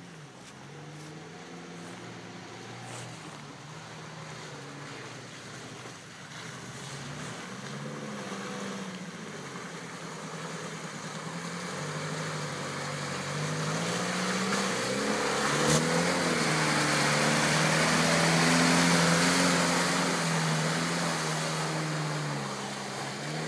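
Off-road vehicle's engine revving up and down, its pitch rising and falling repeatedly, growing louder over most of the stretch with a rushing noise at its loudest, then easing off near the end. A single sharp click sounds about two-thirds through.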